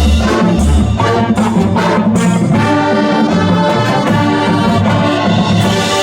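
High school marching band playing, its brass section holding full sustained chords, with a few percussion hits in the first couple of seconds.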